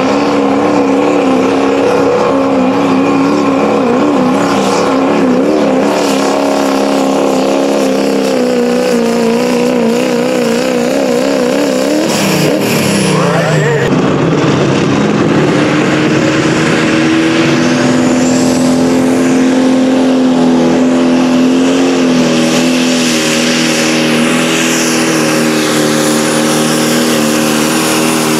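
Pulling-competition engine running at high revs under load, its pitch wavering rapidly. About halfway through the revs drop in a quick downward glide, then the engine holds a steady high pitch again.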